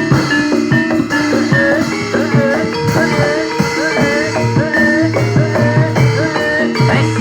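Barongan accompaniment music: steady rhythmic percussion under held metallic notes, with a melody line that bends in pitch.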